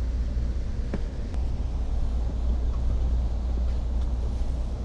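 Steady low rumble of a moving Amtrak passenger train, heard from inside the coach as it rolls into a station, with a couple of faint clicks about a second in.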